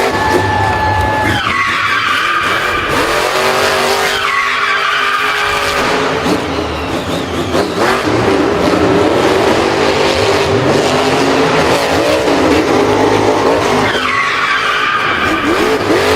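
Racing car engine sounds revving, the pitch sweeping up and down several times, mixed with tyre squeal and skidding.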